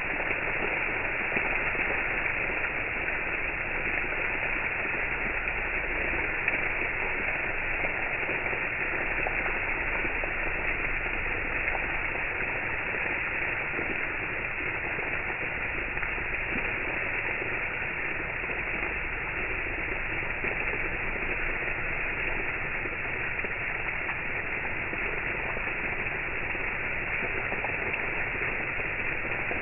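Water fountain spray splashing in a steady, unbroken rush.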